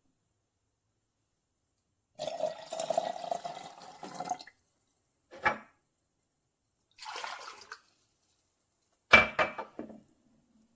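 Amazon Basics 5-cup drip coffee maker brewing. Hot water gurgles and sputters in separate bursts: a longer one about two seconds in, two short ones, and a sharper, louder one about nine seconds in.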